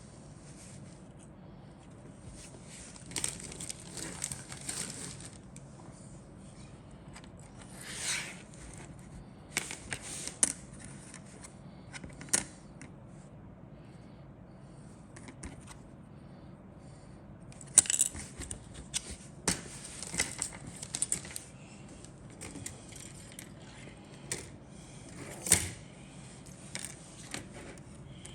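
A plastic model kit's parts and packaging being handled: irregular rustling and light plastic clattering in short clusters, with a few sharper clicks.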